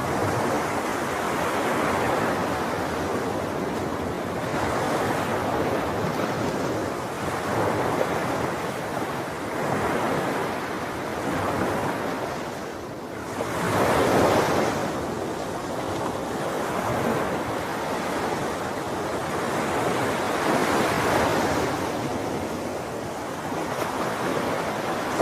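Sea waves breaking and washing on the shore in repeated swells every few seconds, the largest about halfway through, with some wind on the microphone.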